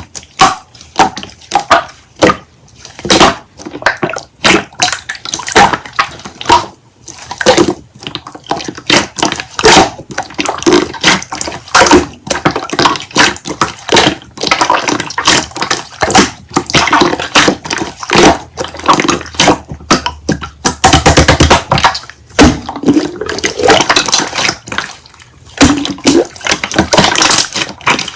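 Hands squishing and poking slime: a constant run of wet clicks, pops and squelches, denser for a few seconds past the middle.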